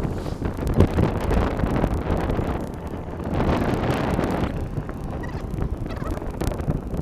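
Wind buffeting the microphone of a moving bicycle: a rough, rumbling noise that swells and eases every few seconds.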